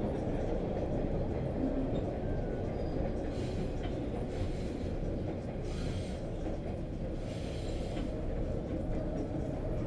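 Subway train running: a steady low rumble, with three brief patches of higher hiss about four, six and seven and a half seconds in.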